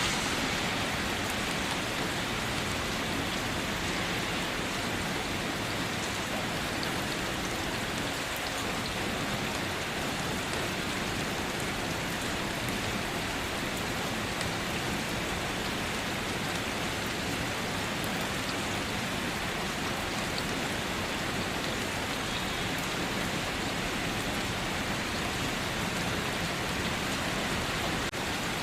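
Steady rain falling on surfaces, an even dense hiss with scattered individual drop ticks.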